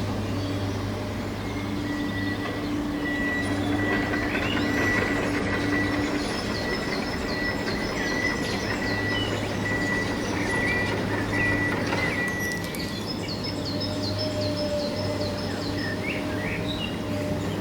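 Steady electric-motor hum and whine of a remote-controlled toy construction vehicle running, with a high whine that stops about two-thirds of the way through. Birds chirp at times.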